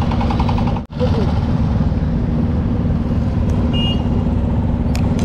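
Motorcycle engine idling in city traffic, a loud steady rumble mixed with rain and wind noise on the camera's microphone. A short high beep from a vehicle comes about four seconds in, and the sound cuts out briefly about a second in.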